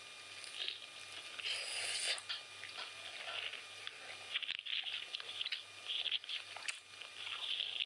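Close-miked chewing and biting of chicken biryani: irregular mouth and food sounds in quick clusters, with a louder, longer burst about a second and a half in.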